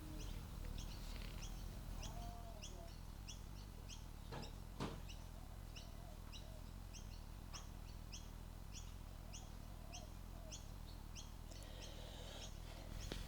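Small bird repeating a short, high chirp, about three a second, in a steady rhythm. Two faint knocks come a little before the middle.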